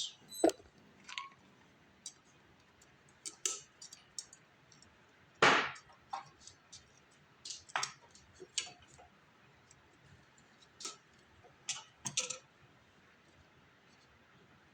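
Scattered small metallic clicks and clinks at an irregular pace, the loudest about five and a half seconds in, from handling and fitting a small hose clamp on a fuel line.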